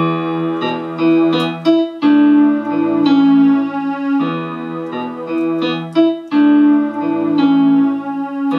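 Electronic keyboard on a piano-pad sound playing a slow introduction in E with both hands: left-hand bass notes under a right-hand figure of B, E, D, C sharp, B. The notes are held and overlap, changing about once a second.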